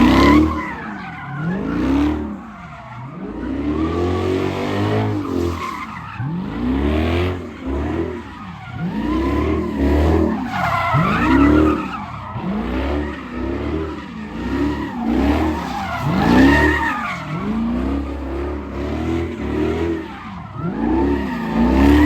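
A car engine revving up and falling back over and over, about once every second or two, with tyres squealing and skidding on the pavement, as at a street takeover.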